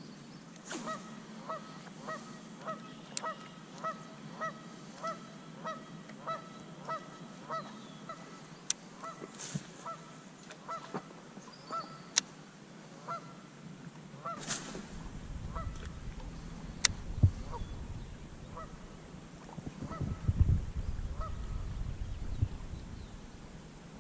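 A goose honking in a steady series, about one and a half honks a second, becoming sparse about halfway through. A low rumbling noise with a few knocks takes over in the second half.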